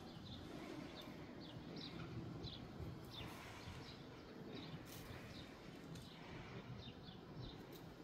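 Small birds chirping: many short, high chirps, several a second, over a steady low background noise of the open countryside.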